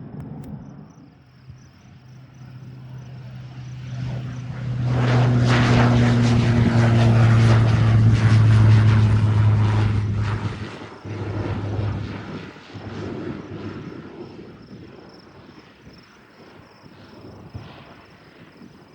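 Propeller airplane passing on takeoff. Its engine and propeller drone swells over a few seconds and is loudest for about five seconds, sliding slightly lower in pitch, then fades away.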